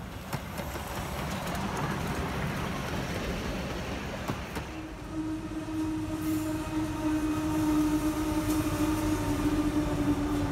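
Steam locomotive 621 approaching with its train, giving a rising rumble of running noise. About four and a half seconds in, the sound switches abruptly to orange GWA diesel locomotives hauling a freight train past, with a steady hum of several even tones over the rail noise.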